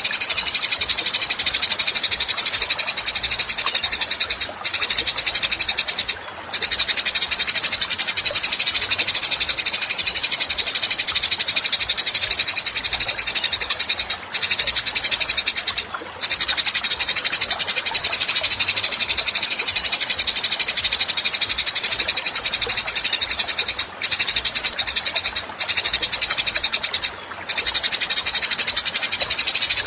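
A rapid, high-pitched buzzing trill, repeated almost without pause in long bouts broken by brief gaps, as played on a songbird-training master recording.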